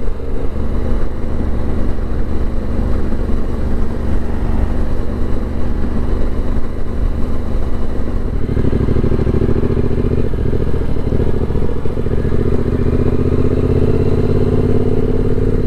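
Yamaha 689 cc parallel-twin motorcycle engine running on the move. About eight seconds in, the engine note grows stronger and climbs slowly in pitch as the bike accelerates.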